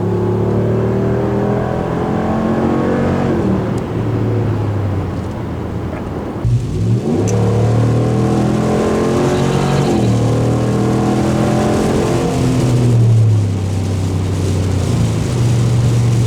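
Ram 1500's 5.7 Hemi V8 pulling hard through its factory muffler, heard from inside the cab. The engine note climbs, breaks with a gear change about six seconds in, climbs again and changes once more near the end.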